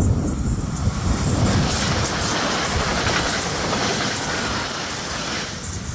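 Bombardier Aventra class 701 electric multiple unit passing close at speed: a low rumble of wheels on rail, then a loud wide rush of wheel and air noise as the carriages go by, fading near the end.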